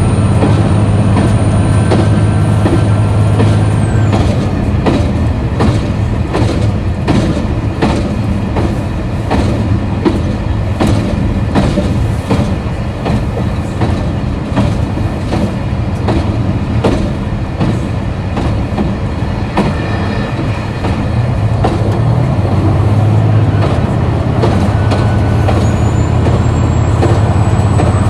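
KiHa 261 series diesel railcar running on the line: its diesel engine hums strongly, eases off about four seconds in, and comes back up about twenty-two seconds in. While the engine is eased off, the wheels click over the rail joints. A high whine drops away as the engine eases off and returns, rising, near the end.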